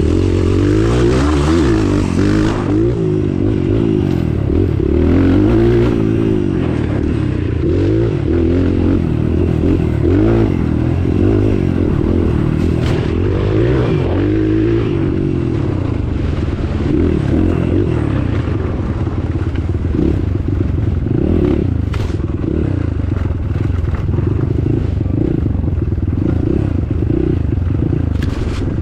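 Off-road trail motorcycle engine running under load on a rough track, its pitch rising and falling with the throttle. Rattles and a few sharp knocks from the bike come through over the engine.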